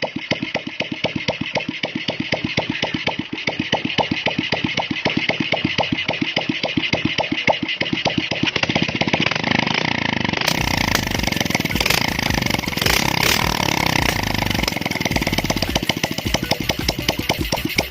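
Restored Suzuki Shogun 125 single-cylinder engine running with an even, regular beat, running nicely after the rebuild. About ten seconds in the sound becomes fuller and denser, still the same running engine.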